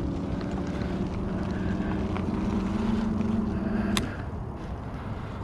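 Electric e-bike motor running with a steady hum under a light haze of rolling and wind noise. The hum rises slightly in pitch partway through, then cuts off abruptly with a sharp click about four seconds in.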